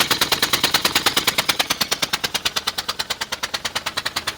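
Rapid, even ticking of about a dozen sharp clicks a second from a 2000 Ford Explorer Sport: the strange noise the owner is recording.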